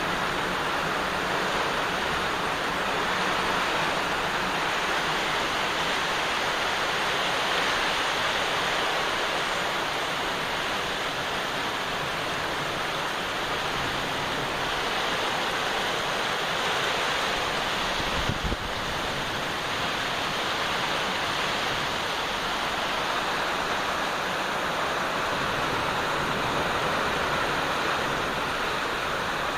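Heavy rain pouring down, a steady, even rush of water that holds constant throughout.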